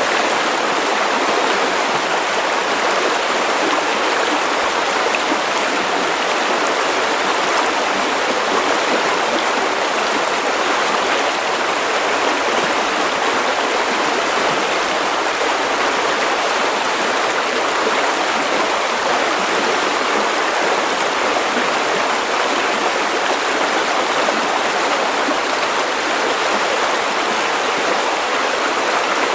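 River water running over stones, a steady rushing and burbling flow with no breaks or changes.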